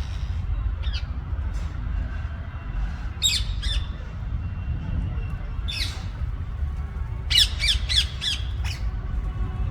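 Rose-ringed (ring-necked) parakeets screeching: single harsh squawks a couple of seconds apart, then a quick run of about five calls in a row near the end, over a steady low rumble.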